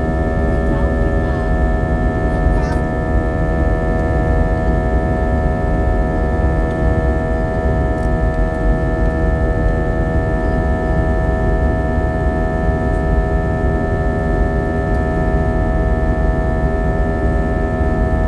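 Cabin noise inside a Sukhoi Superjet 100 under power from its SaM146 turbofans: a steady low rumble with a steady droning hum of several tones over it, the odd sound the passenger likens to riding a propeller boat.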